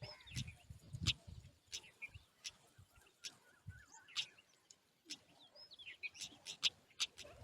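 Small birds chirping at a nest, short high chirps and little rising and falling calls, mixed with sharp clicks and soft low thumps.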